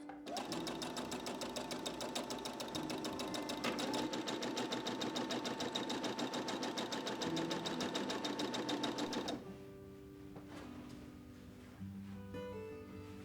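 Electric sewing machine stitching at a fast, even rate for about nine seconds, then stopping.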